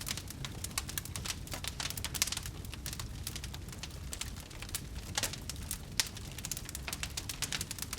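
Wood fire crackling in a fireplace: dense, irregular pops and snaps over a low, steady rumble of burning, with a couple of sharper pops about two and six seconds in.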